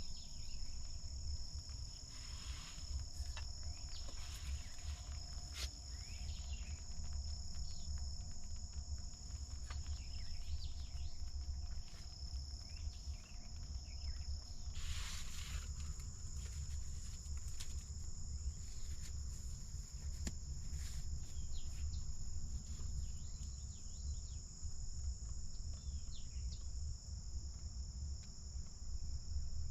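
Insects trilling steadily at a high pitch, with scattered short chirps and a low rumble underneath. A brief rustle about fifteen seconds in.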